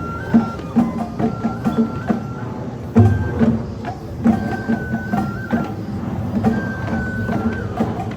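Japanese festival music accompanying a lion dance: a bamboo flute plays held, ornamented notes over a steady beat of drum strikes, with a heavy deep drum hit about three seconds in.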